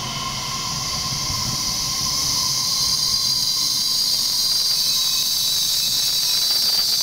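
Taiwan Railway EMU3000 electric multiple unit braking as it rolls slowly into the platform: a high, steady hiss with a faint squealing tone that grows a little louder.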